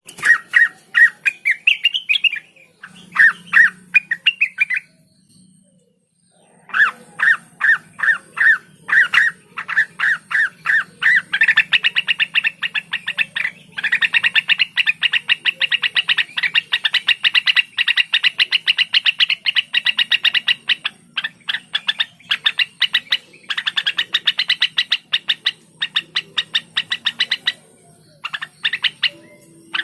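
Cucak wilis bird singing in fast rapid-fire runs of short, sharp chirps, its 'nembak' shooting song. It pauses briefly about five seconds in, then the chirping grows denser and almost continuous, broken by a few short gaps.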